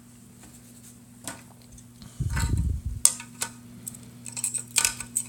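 Plastic parts of a Logitech M570 trackball handled during reassembly: a low thump about two seconds in, then a scatter of light clicks and clatter.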